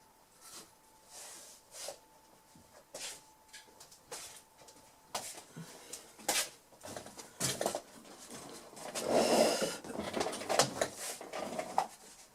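Scattered clicks, taps and rustles from hands handling small parts and a wire at a workbench, with a longer scraping rustle about nine seconds in. A faint steady whine sits under the first half.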